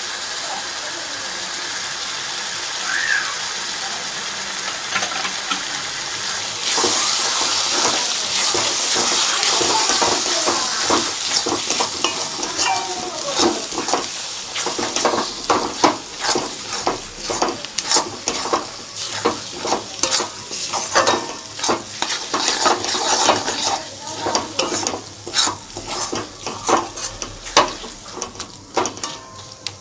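Onion-tomato masala with spices sizzling in oil in a metal kadai, the sizzle growing louder a few seconds in. From about halfway through, a metal spatula stirs and scrapes it with many quick knocks and scrapes against the pan.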